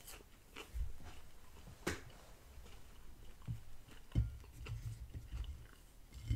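Chewing a Chicken McNugget close to the microphone: soft low thuds and small mouth clicks, with one sharper click about two seconds in.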